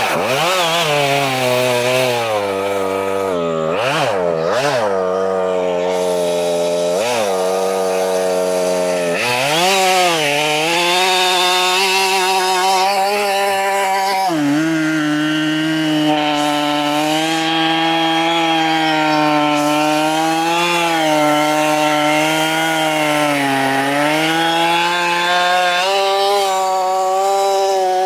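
Husqvarna 572 XP two-stroke chainsaw revving up and dropping back several times, then held at high revs through a cut in a dead oak trunk, its pitch sagging briefly a few times under load.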